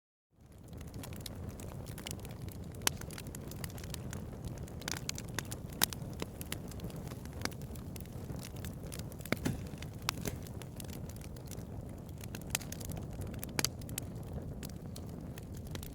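Bonfire burning: a steady low rumble of flames with scattered sharp crackles and pops, a few louder than the rest. The sound cuts out briefly at the very start, then fades back in.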